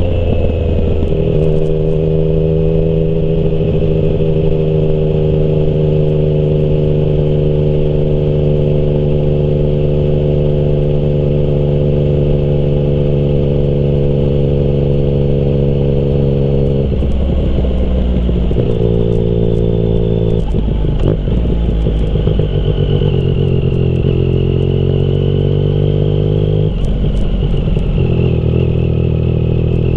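Yamaha MT-09's inline-three engine through a Termignoni exhaust while riding, holding a steady note for about the first half. In the second half the engine note breaks off and comes back at a different pitch several times as the throttle and revs change.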